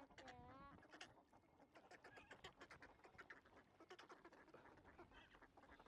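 Faint calls from a flock of swans and other waterfowl: a honk that bends in pitch in the first second, then many short overlapping calls.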